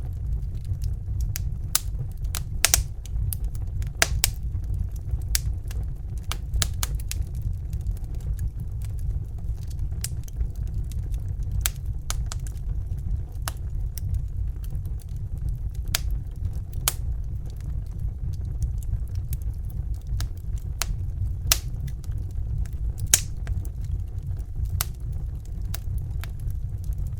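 Wood fire crackling, with irregular sharp pops and snaps over a steady low rumble; a few louder pops stand out, about three and four seconds in and again past the twenty-second mark.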